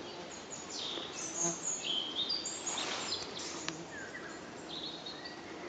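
Forest songbirds singing: a scatter of short, high whistled notes and quick pitch glides from several birds.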